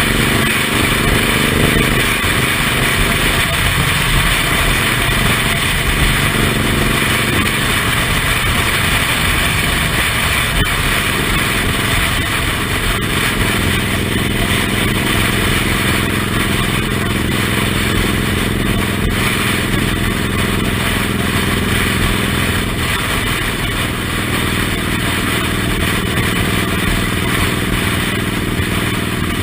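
Suzuki Intruder M1800R's V-twin engine running under way, its pitch rising and falling with the throttle, over a steady rush of wind and road noise.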